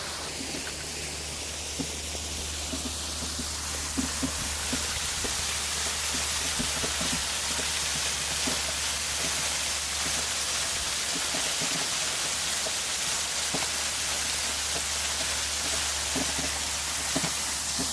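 Steady rush of a waterfall's falling water, growing a little louder about four seconds in, with a few small knocks.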